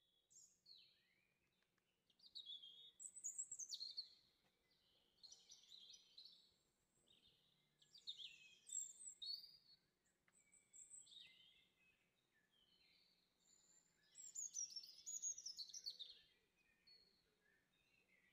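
Faint birdsong: a small bird's high chirps and quick falling trills, in short phrases every couple of seconds.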